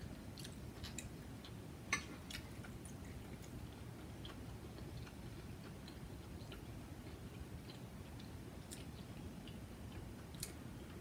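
Quiet eating sounds: soft chewing with scattered small clicks of chopsticks against a bowl, the sharpest click about two seconds in, over a faint steady low hum.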